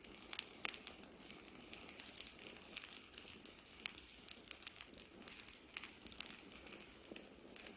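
Wood campfire crackling: irregular sharp pops and snaps, several a second, over a faint hiss.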